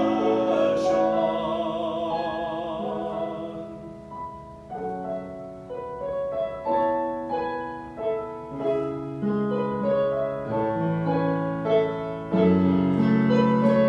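Piano accompaniment of a sung worship song: a singer holds the last note of a line with vibrato over sustained piano chords, which fade after about three or four seconds. Then the piano plays a solo interlude of moving chords.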